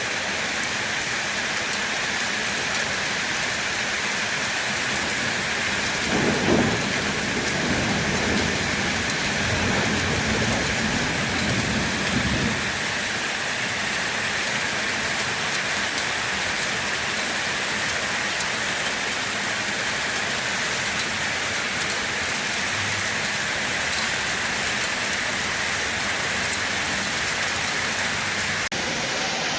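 Steady rain falling, with a roll of thunder rumbling in about six seconds in and dying away over about six seconds.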